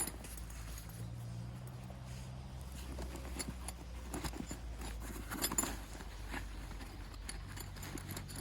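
Camping gear being handled: scattered small clicks, taps and rustles, a little louder about five seconds in, over a steady low rumble.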